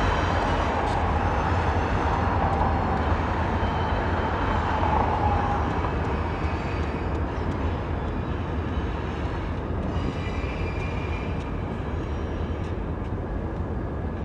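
Freight train rolling past: a steady rumble with wheel noise on the rails, easing slightly in level over the last several seconds.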